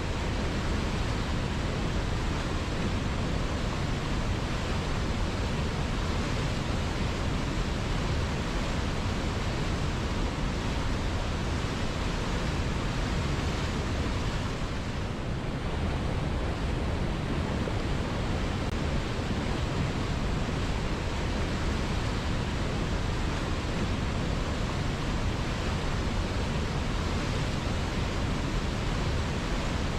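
River water flowing steadily, a continuous rushing sound with no pauses.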